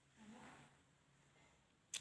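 Near silence: room tone, with a faint soft sound about half a second in and a single sharp click near the end.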